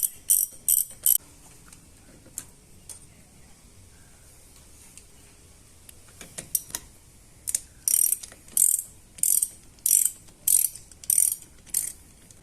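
Ratchet wrench with a 10 mm socket clicking in short bursts as it loosens the battery terminal nut. There are a few quick strokes at first, a pause with scattered ticks, then a steady run of strokes about every two-thirds of a second in the second half.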